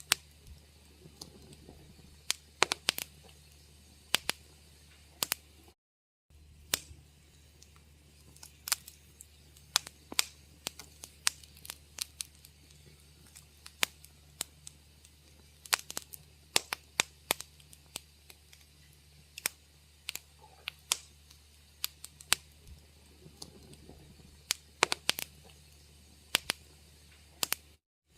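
Wood fire crackling in a fireplace: irregular sharp pops and snaps, several a second, over a steady low rumble. The sound cuts out to silence for a moment about six seconds in and again near the end.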